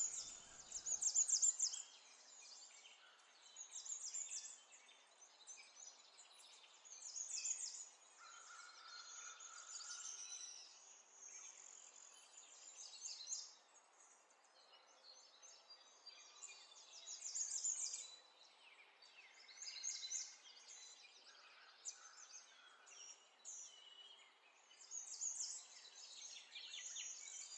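Faint bird chirping in short bursts every few seconds, over low background noise.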